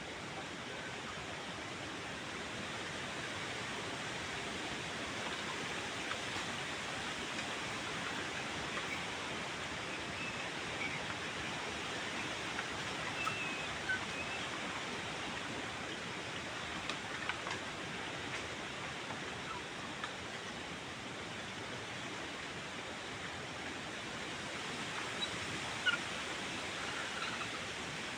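Steady rushing of water in a forest stream, with a few faint short bird chirps now and then.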